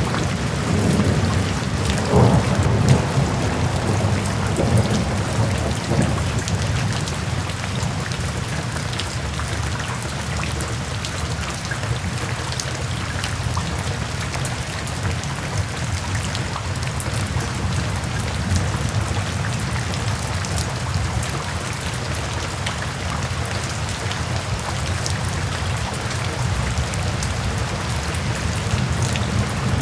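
Steady rain falling in a continuous shush with scattered drops, and a low rumble that swells in the first few seconds and then fades.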